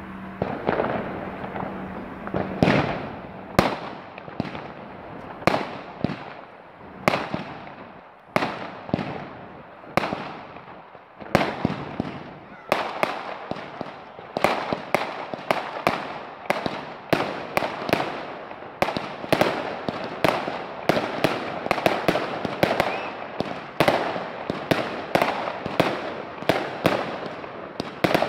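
Fireworks going off: a long series of sharp bangs, each trailing off in a ringing echo, coming faster and closer together in the second half.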